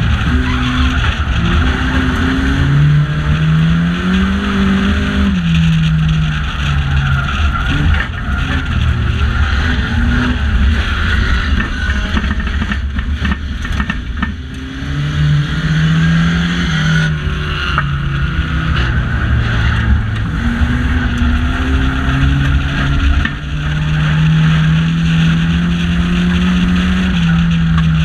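A banger racing car's engine, heard from inside the stripped cabin, pulling hard and easing off: the pitch rises and falls three times as the driver accelerates and lifts, over a constant rumble and road noise.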